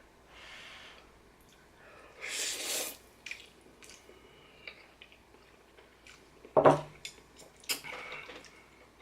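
Someone eating instant noodles: wet slurping and chewing in short bursts, with a few light clicks.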